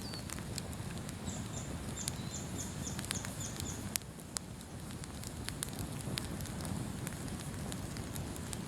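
Outdoor bonfire crackling, with sharp irregular pops over a steady low rumble. A small bird calls a quick run of about seven high, falling notes between about one and four seconds in.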